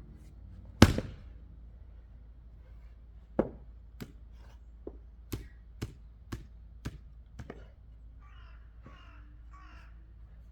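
Axe chopping wood: one hard strike about a second in, then a run of about eight lighter knocks at roughly two a second. A bird calls three times near the end.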